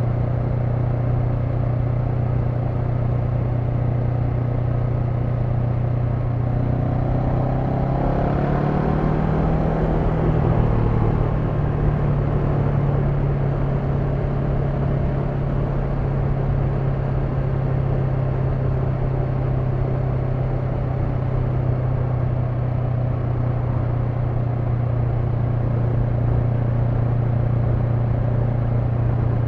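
Honda NX500's parallel-twin engine running steadily under way. About seven seconds in, the revs rise for a few seconds as it accelerates, then settle at a slightly higher steady note.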